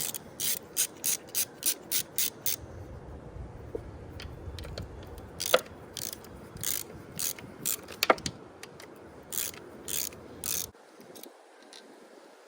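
Socket ratchet clicking as 10 mm bolts are backed out of a Yamaha four-stroke outboard's thermostat cover: a quick run of clicks at about three a second, then slower, scattered clicks that stop near the end.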